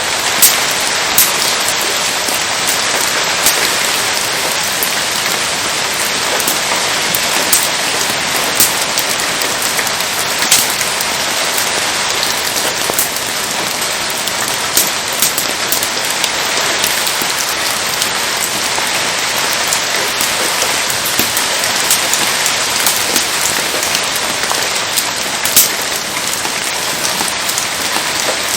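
Steady rain falling, an even hiss, with irregular sharp pops and crackles from the wood fire burning in it.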